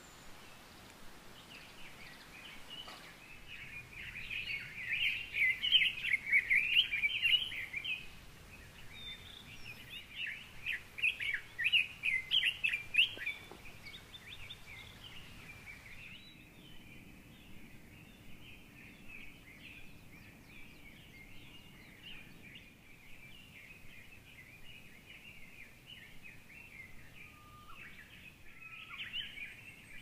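A songbird singing two loud bouts of rapid, jumbled, high notes, with fainter bird calls continuing behind; the background changes abruptly about halfway through.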